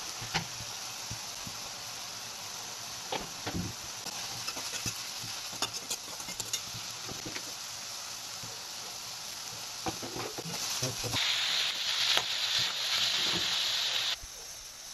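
Vegetable curry sizzling in an aluminium kadai, with the scattered clinks and scrapes of a spoon stirring it against the pan. About eleven seconds in the sizzling hiss grows louder, then cuts off suddenly near the end.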